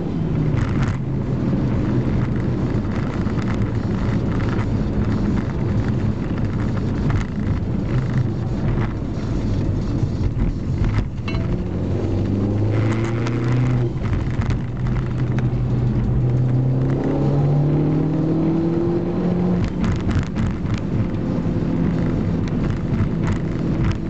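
Seat Ibiza Cupra's engine heard from inside the cabin, pulling hard with its pitch climbing through the revs and dropping at the gear changes, twice. Under it run steady tyre and road rumble and short knocks and rattles from the rough road surface.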